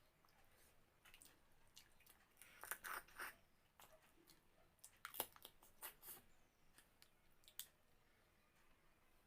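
Close-up eating sounds: a person chewing and biting food, with short wet mouth clicks and crackles that come in bunches about 3 seconds in and again from about 5 to 6 seconds in.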